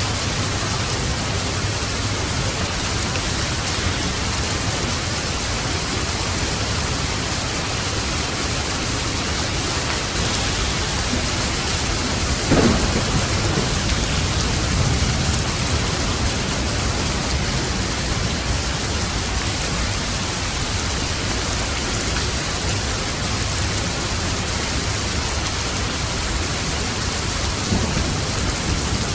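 Steady heavy rain, with a sudden clap of thunder about halfway through that rumbles on for a couple of seconds.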